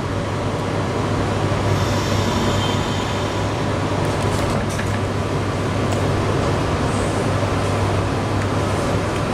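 Steady hum and rumble of a train standing at the platform, heard from inside the carriage: its onboard equipment running while the train waits, with a few faint ticks about halfway through.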